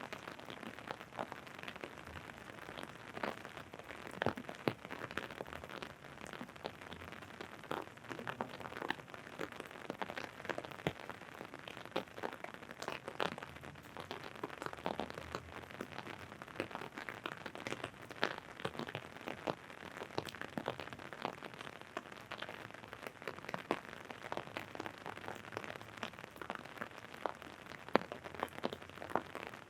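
Rain falling on an umbrella overhead: a dense, steady patter of drops with frequent sharper, louder drips mixed in.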